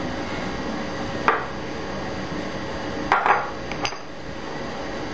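A few light knocks of a spoon against a glass bowl while ingredients are added: one about a second in and a quick cluster around three seconds in, over a steady background hiss.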